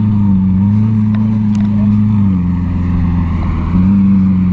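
Lamborghini Aventador's V12 engine running at low revs as the car creeps slowly across grass. The note holds steady, stepping slightly up and down in pitch a few times.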